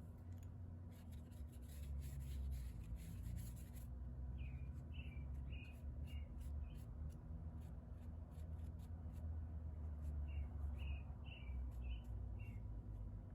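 A small bird calling in two runs of five or six short, falling chirps, the second about six seconds after the first, over a steady low rumble. Light ticking or scratching fills the first few seconds.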